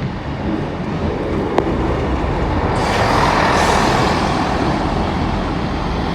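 East Midlands Railway class 158 diesel multiple unit passing over the level crossing: a steady rumble of engine and wheels that swells about three seconds in, with one sharp click about a second and a half in.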